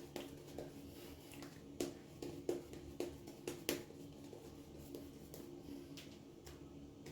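A 1951 Gillette Black Tip double-edge safety razor with a Feather blade scraping through lathered stubble in a run of short, scratchy strokes, a few of them sharper and louder.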